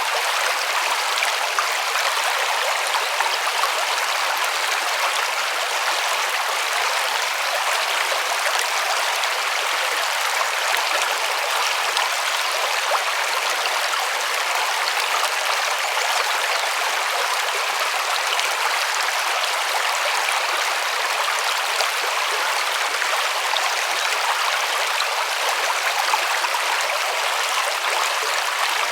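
River water flowing and rushing steadily over stones, an even unbroken rush with no low rumble.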